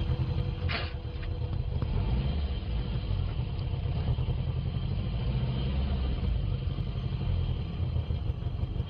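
Car engine and road noise: a steady low rumble, with one short, sharp sound less than a second in.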